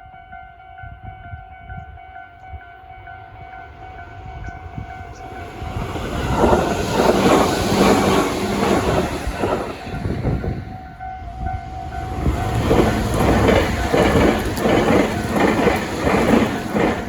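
Tobu Railway train passing over a level crossing, its wheels clattering over the rail joints in a quick rhythm. It is loud from about six seconds in, eases briefly around ten to eleven seconds, then rises again. The crossing's electronic warning bell rings steadily and is heard plainly at the start and in the lull.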